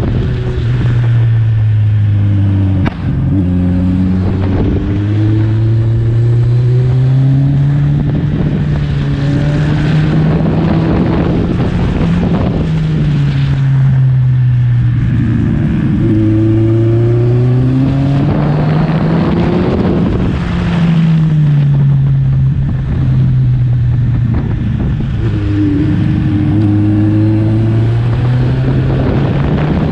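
Kawasaki Ninja 1000's inline-four engine under way, heard from the rider's seat. Its pitch rises and falls again and again as the throttle is opened and closed through a series of uphill bends.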